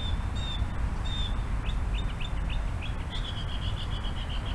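A songbird singing: a few short high chirps, then a quick run of down-slurred notes, ending in a fast trill near the end, over a steady low rumble.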